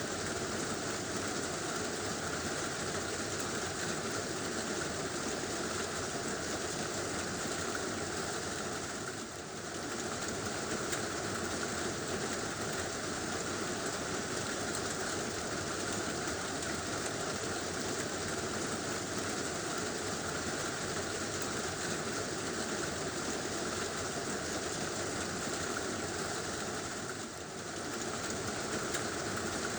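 Heavy rain falling steadily on a tin roof, easing briefly twice, about nine seconds in and near the end.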